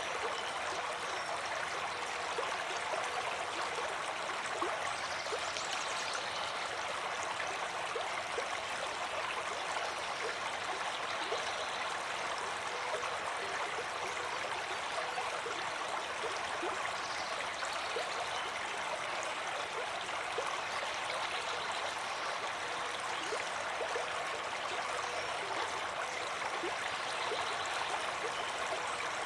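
Water flowing in a stream, a steady rush with many small splashes and trickles throughout.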